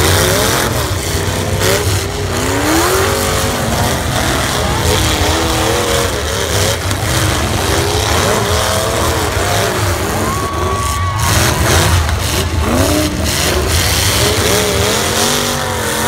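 Several demolition derby cars' engines revving hard over a heavy low rumble, their pitch rising and falling as the cars push against each other in the dirt.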